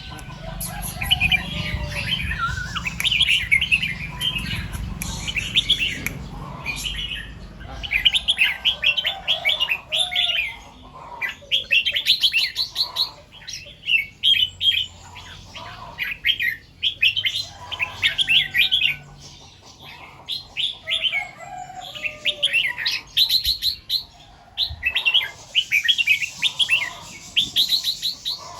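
Red-whiskered bulbul singing short, bright warbled phrases, one after another every second or two. A low rumble sits under the song for the first few seconds.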